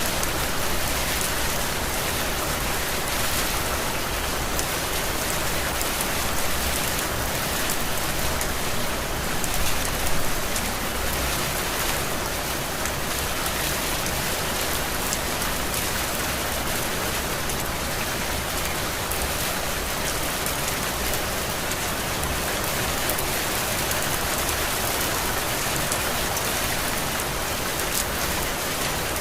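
Heavy rain falling steadily, a dense even hiss of drops with a brief louder swell about ten seconds in.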